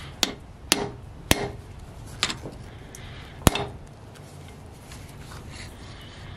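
Hammer blows on steel at an anvil: five sharp strikes at uneven intervals, each with a short ring, then only faint small knocks in the last couple of seconds.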